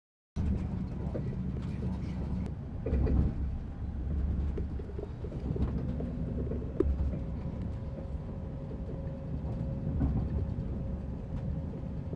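A train's steady low rumble, starting abruptly after a brief moment of silence, with a faint steady hum joining about halfway through.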